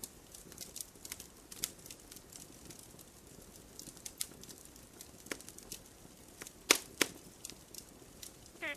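Wood campfire crackling: scattered small pops and snaps over a faint hiss, with two louder, sharper snaps close together about two-thirds of the way through.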